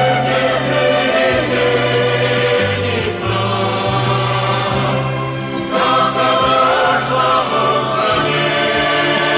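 Background choral music: a choir singing over held low bass notes that change every second or so.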